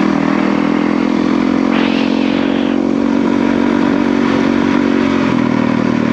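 Yamaha WR450F's single-cylinder four-stroke engine running at steady revs while riding a trail, with a brief rushing noise about two seconds in and a change in the engine note a little after five seconds.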